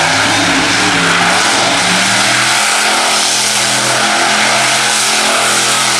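Monster truck engine running loud and revving, its pitch shifting partway through, over a dense wash of noise.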